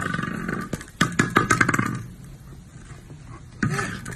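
A big cat growling in three rough, pulsing bouts. The loudest bout comes about a second in, and a short one comes near the end.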